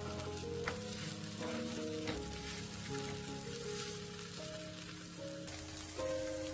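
Tuna-and-tofu patties sizzling as they fry in oil in a nonstick pan, with a couple of light taps as they are turned over with a spatula and chopsticks.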